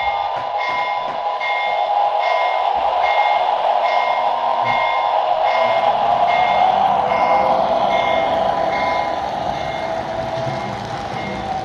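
Lionel O gauge toy locomotive's electronic sound system ringing its bell, a short high ding about every three-quarters of a second, over the steady running noise of the train on its track.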